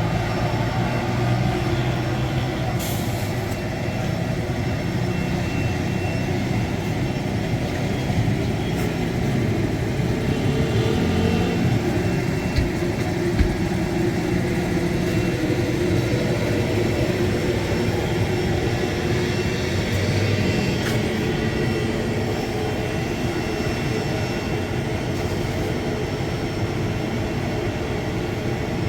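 Steady drone of running machinery with a low hum, broken by a couple of brief knocks about halfway through.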